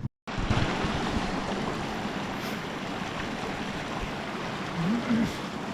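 Creek water flowing, a steady rushing hiss.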